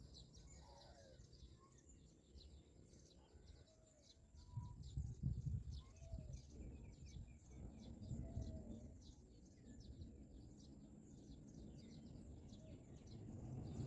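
Faint birdsong: rapid, high chirps repeating many times a second, with a few short whistled notes, over a low rumbling that grows louder for a few seconds in the middle.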